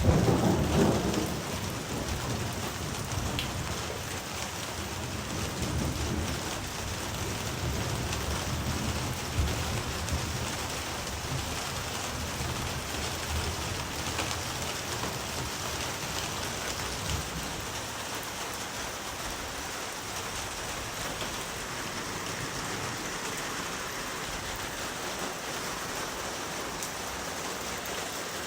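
Steady rain falling, with a low rumble of thunder that is loudest in the first second and dies away over the next fifteen seconds or so.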